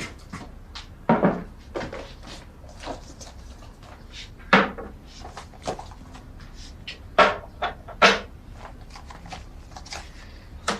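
A run of short knocks and clatters from cupboards and small objects being handled, irregular, with louder knocks about a second in, about four and a half seconds in, and twice between seven and eight seconds.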